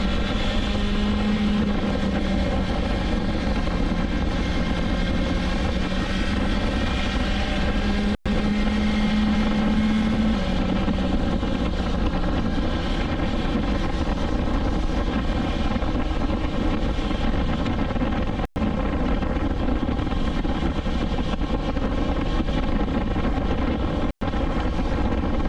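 Motorcycle inline-four engine of a BMW S1000XR running under way, a steady multi-toned engine note that rises slightly in pitch a couple of times, over low wind rumble. The sound drops out for an instant three times.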